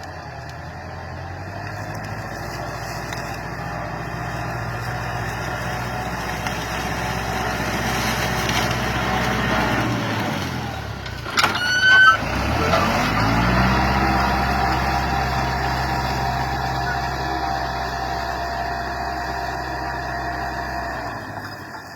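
Tractor engine running steadily, growing louder toward the middle. About eleven and a half seconds in there is a brief sharp high-pitched sound, after which the engine note drops and settles into a steady lower run before fading near the end.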